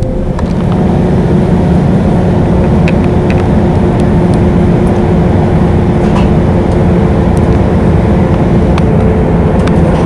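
A vehicle in motion: a steady, loud, low rumble with a faint steady hum and scattered light ticks.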